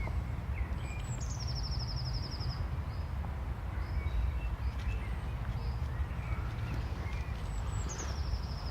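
Woodland birdsong. A songbird twice sings a high note sliding down into a rapid, even trill about a second long, and other birds chirp briefly in between, over a steady low rumble.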